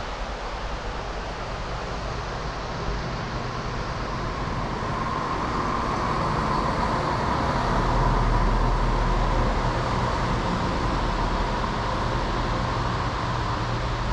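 Passenger train moving through the station, a steady rumble and rush that grows louder to a peak a little past halfway, then eases slightly.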